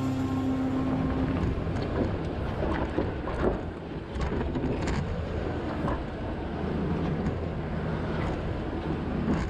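Lexus GX460's 4.6-litre V8 running through a Magnaflow aftermarket exhaust as the vehicle drives, a steady low drone with a few short knocks over it.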